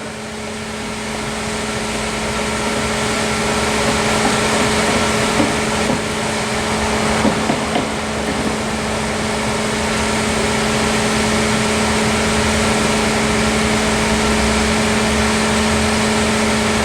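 Cheap Harbor Freight compressed-air paint spray gun hissing steadily as it sprays, over a steady motor hum.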